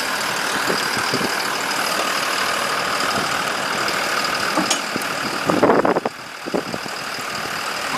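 A vehicle engine running steadily, with a louder jumble of sound about five and a half seconds in, after which the level drops suddenly.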